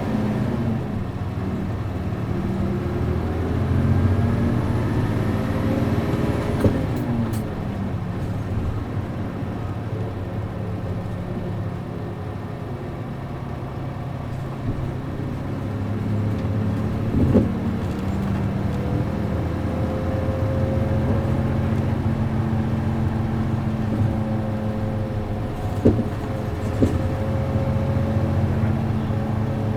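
Route bus's MD92TJ diesel engine heard from on board while driving, its pitch rising under acceleration and dropping at a gear change about seven seconds in, with a few short knocks and clicks from the bus later on.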